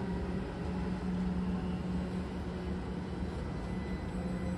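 A train running with a steady hum, with a faint high whine over it.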